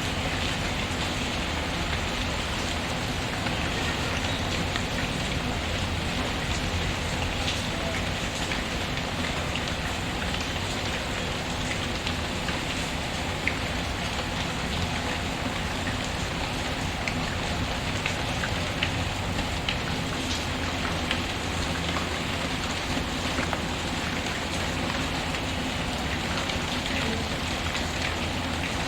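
Steady rain pattering, an even hiss, mixed with a fireplace whose sharp crackles pop out now and then.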